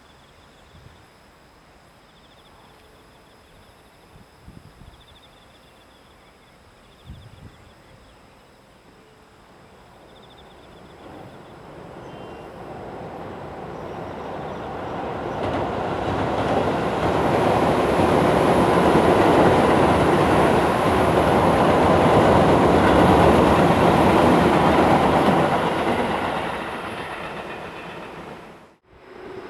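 Tobu 10000 series electric train approaching and running past on the rails, swelling over about ten seconds to a loud, steady rumble and clatter of wheels on track, then fading. The sound cuts off suddenly near the end.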